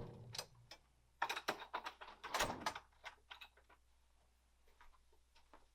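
Door sounds: a run of light knocks and clicks starting about a second in, the loudest a thump about two and a half seconds in.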